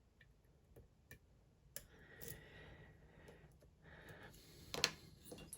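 Faint, irregular clicks and light metallic scraping of a lock pick working the pins of a Dom IX Twinstar dimple lock, with one louder click near the end.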